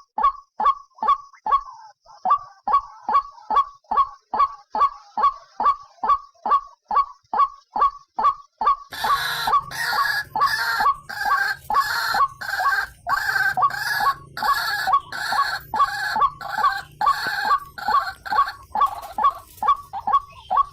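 White-breasted waterhen (ruak-ruak) calling, a fast run of short repeated croaking notes, about three a second. From about nine seconds in, a second, harsher layer of calls joins in over it, thickening the sound.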